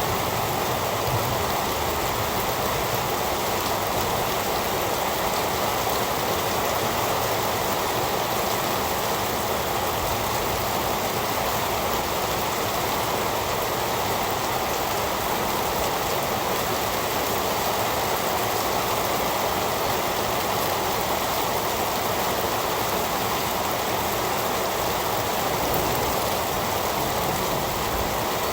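Heavy rain falling in a dense, steady hiss, with no distinct drops, thunder or breaks.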